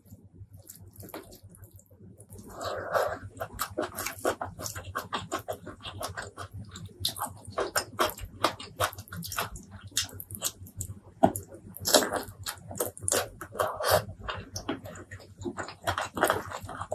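Close-miked eating sounds of spicy fried chicken wings and rice eaten by hand: wet chewing and lip smacking, a dense run of short smacks and clicks that starts about two seconds in.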